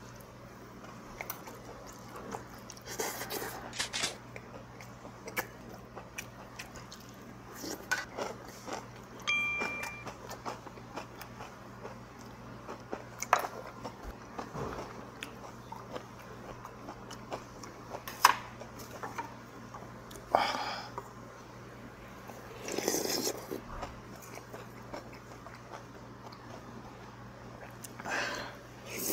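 Close-up mouth sounds of a person eating raw fish: chewing and biting, with small clicks of chopsticks and utensils against dishes. Near the end comes a short slurp from a spoon.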